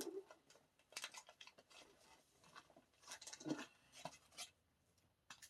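Faint rustling and light taps of paper and card being handled: album inserts and photo cards shuffled and set down, in scattered short bursts.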